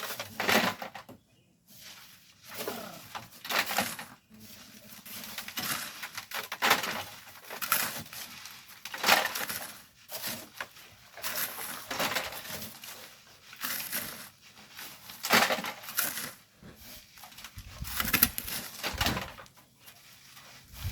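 Shovels scraping and biting into loose volcanic sand, one stroke every two to three seconds, with a brief low rumble near the end.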